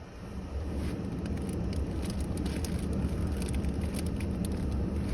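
Steady low rumble of a vehicle engine running, building up in the first half second, with scattered light ticks over it.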